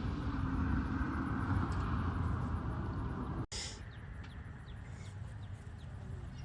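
Bee vacuum running with a steady motor hum and rush of suction as bees are vacuumed off the comb. It cuts off abruptly about three and a half seconds in, leaving a quieter background with a few faint chirps.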